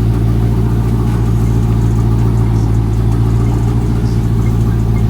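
Supercharged 6.2-litre Hemi V8 of a Dodge Charger SRT Hellcat Redeye idling steadily, warming up after a cold start.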